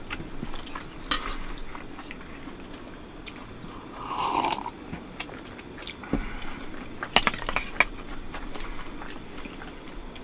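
Tableware clinking and clicking during a meal: eating utensils tapping and scraping against dishes in scattered sharp clicks, with a brief rustling burst about four seconds in and the loudest run of clicks about seven seconds in.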